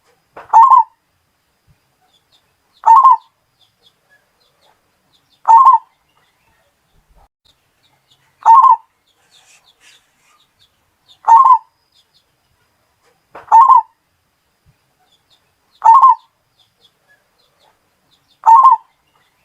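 Zebra dove (perkutut) cooing: a short call of about half a second, repeated eight times at an even pace of about one every two and a half seconds.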